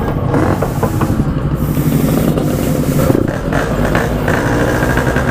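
Several motorcycle engines running together, among them a two-stroke Yamaha RX-King. The pitch wavers up and down slightly with small blips of the throttle.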